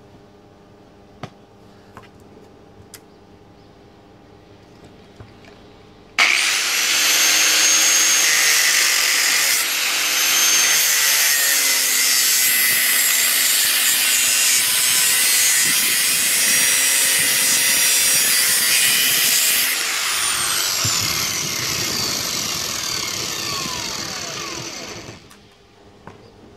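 A few light clicks, then about six seconds in an angle grinder starts up and runs loud with a high whine while working metal exhaust parts. About twenty seconds in it is switched off and its pitch falls as it winds down.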